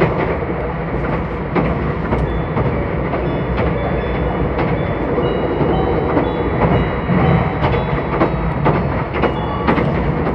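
Running noise of a Meitetsu 2000 series μSKY electric train heard from inside the car: a steady rumble of wheels on rail, broken by irregular clicks over the rail joints.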